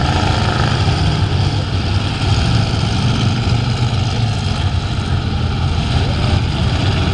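Engines of several full-size race trucks and vans running loud and steady as they race around a figure-8 track.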